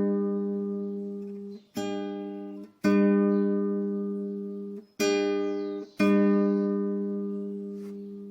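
Acoustic guitar playing slow chords, each strummed once and left to ring out and fade before the next; four strums.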